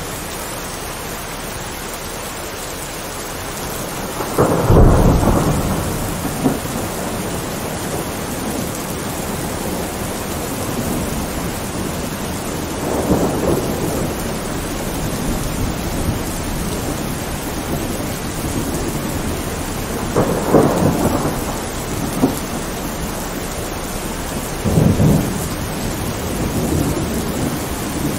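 Thunderstorm: steady rain falling, broken by several rolls of thunder, the loudest about four seconds in and others at intervals through the rest.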